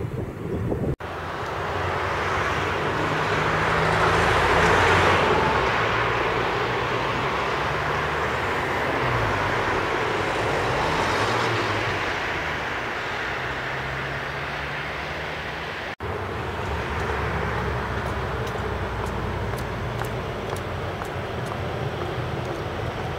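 First Great Western High Speed Train rolling over a railway bridge: a steady rumble of wheels on rail with the drone of a Class 43 diesel power car, swelling about four to five seconds in. Brief dropouts about a second in and at sixteen seconds, and light ticks near the end.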